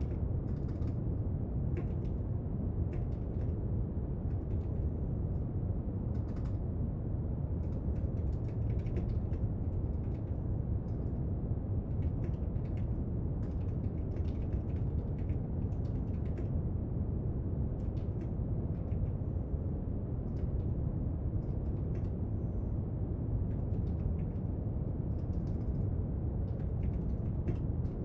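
Steady brown noise, an even deep hiss, with faint, irregular light clicks and taps from someone studying at a desk.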